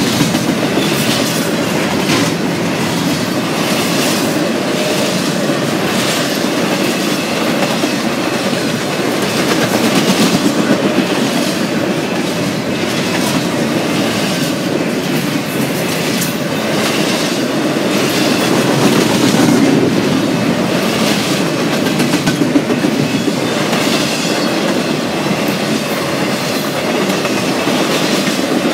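Intermodal freight train's double-stack container cars and trailer-carrying flatcars rolling past at speed: a steady rumble of steel wheels on rail with a run of repeated clicks.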